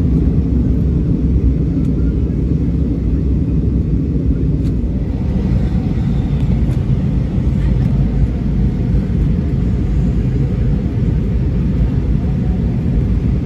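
Airbus A319 cabin noise during descent: a steady, loud, low rumble of engines and airflow.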